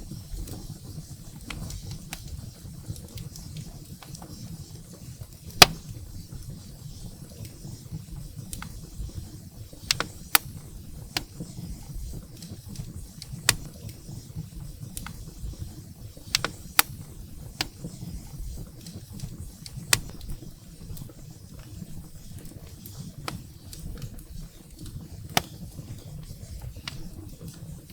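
Firewood burning in a fireplace: irregular sharp crackles and pops, the loudest about five and a half seconds in, over a steady low rumble of the flames.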